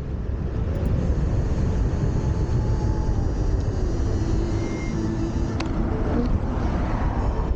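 Steady low rumble of an electric scooter being ridden: wind buffeting the camera microphone and tyre noise from the ground.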